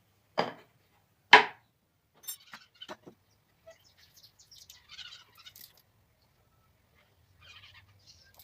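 Two sharp, loud impacts about a second apart as a pallet-wood batten is fastened in place. Lighter wooden clicks and scraping follow as the piece and the jig are handled.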